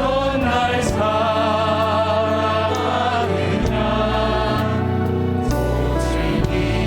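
Church praise band and singers performing a Korean worship song: voices singing together over piano, synth, bass guitar, electric guitar and drums, with a few cymbal or drum hits.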